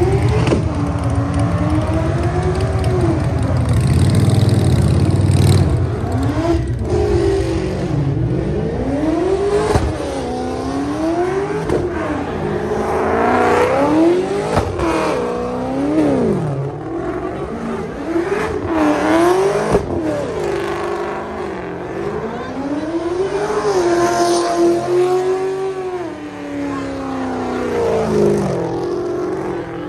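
Car engine revved hard over and over, its pitch climbing and dropping a dozen or so times in quick succession, as in donuts or burnouts.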